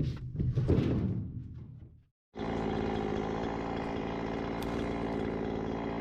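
Irregular knocks and rustling for about two seconds, then a brief dropout, after which a chainsaw engine runs at a steady, even idle.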